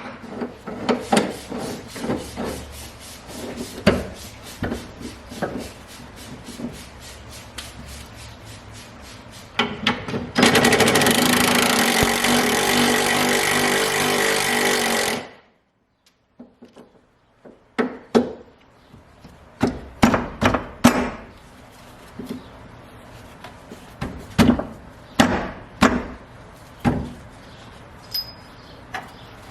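Tools on a car's suspension: many sharp clicks and knocks of metal parts and hand tools. Near the middle comes about five seconds of a loud steady noise, likely an air or power tool, which cuts off abruptly.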